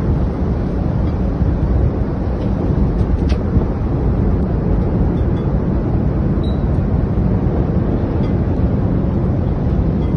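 Strong wind of a tornado blowing across the microphone: a steady, low rumbling noise.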